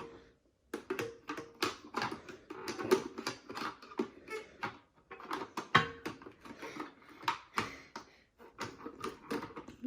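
Irregular plastic clicks and taps as a plastic toy airplane wing is handled and pushed into its slot on the fuselage.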